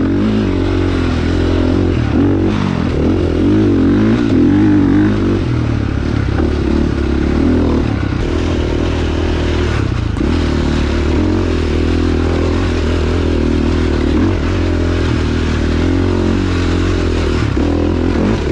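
Single-cylinder dirt bike engine running while riding, the revs rising and falling continuously.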